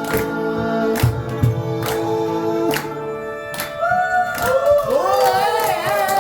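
Live band playing the closing bars of a pop song: sustained chords with regular drum hits, then from about four seconds in a wordless, wavering sung melody over the held chord.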